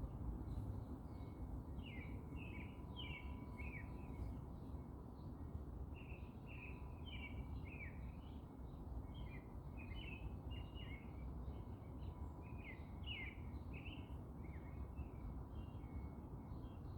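Small birds chirping: many short, falling chirps in quick runs, over a steady low background rumble.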